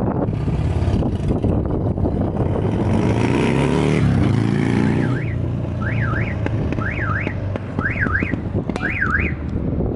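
Buell XB9SX's air-cooled V-twin running under way, its exhaust note rising in pitch as it accelerates about three seconds in. From about halfway, a high electronic alarm-like tone sweeps up and down over it, in pairs about once a second.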